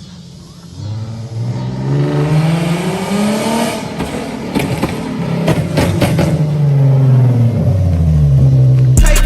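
Infiniti G37's 3.7-litre V6 with no exhaust, its note rising over a few seconds, holding, then dropping near the end, with a string of sharp pops in the middle.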